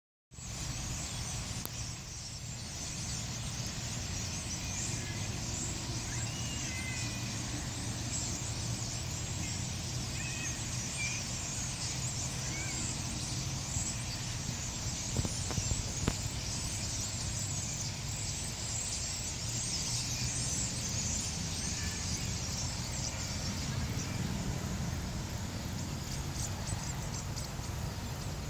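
A large flock of birds chattering and squealing all at once, a dense unbroken din of high calls, over a low steady hum.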